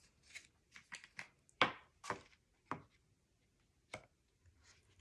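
Paper flap being lifted and repositioned on a work surface: a scatter of short taps and paper rustles, the loudest about a second and a half in.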